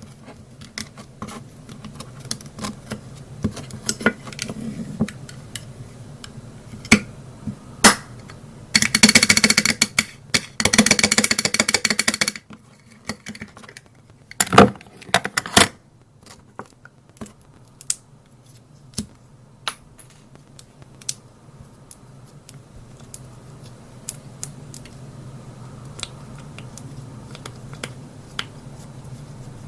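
Cosmetic containers and tools being handled: scattered clicks and taps, with two bursts of rapid rattling about nine and eleven seconds in, and a louder knock a few seconds later.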